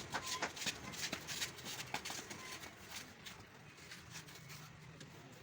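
Irregular light clicks and knocks, as of tools and parts being handled, coming thick at first and thinning out after about three seconds.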